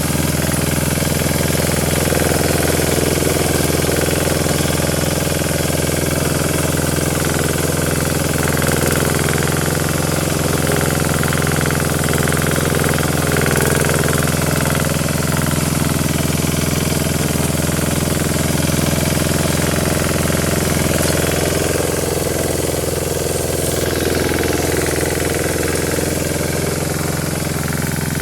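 Yağmur YET 510 motor hoe's engine running steadily at a constant speed, with a put-put beat.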